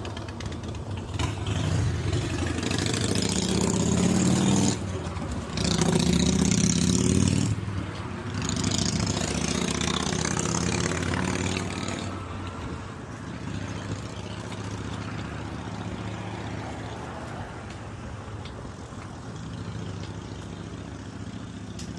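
A motor vehicle's engine revs up in three loud pulls with short breaks between them, like gear changes under acceleration, then runs on more steadily and quietly about halfway through.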